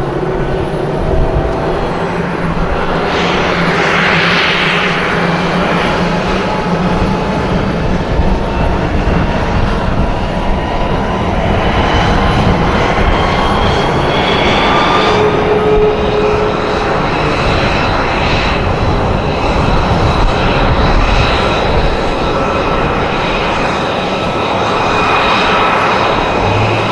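Aircraft in flight: loud, steady engine noise with slowly rising and falling tones, swelling about four seconds in, again midway and once more near the end.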